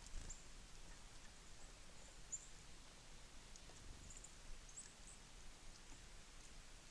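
Faint, very high, short chirps of small birds at a feeder, scattered a few times over several seconds above a quiet background hiss.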